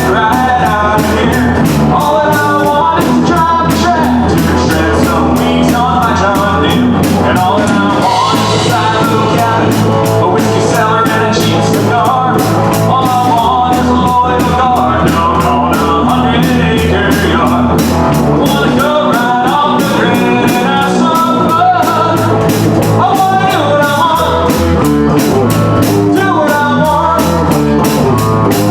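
Live country-rock band playing a song, with a singer over electric guitar, bass and drum kit.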